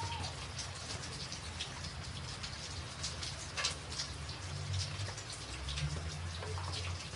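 Rain falling steadily on a tin roof: a continuous patter with many scattered louder drops tapping through it, over a steady low rumble.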